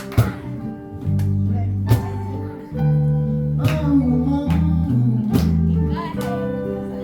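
Live band playing an instrumental passage: guitar chords over held bass notes, with a crash accent about every second and a half to two seconds.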